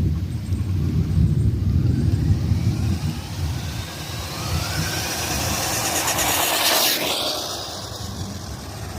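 RC truck's small brushed electric motor and metal-geared gearbox whining higher and higher as the truck speeds up. The whine breaks off sharply about seven seconds in and falls away, under a low rumble of the truck running over the ground.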